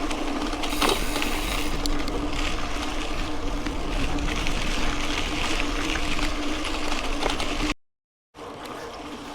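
Mountain bike rolling along a dirt road: steady tyre noise on the gravel with a constant low hum and scattered clicks and rattles from the bike. The sound cuts out for about half a second near the end, then comes back quieter.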